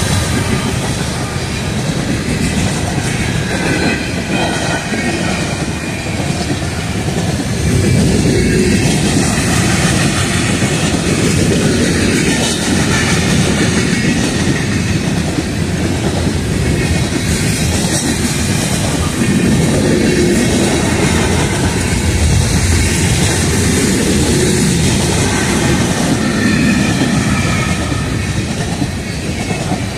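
Freight train of open-top coal hopper cars rolling past, a steady loud rumble and clatter of steel wheels on the rails.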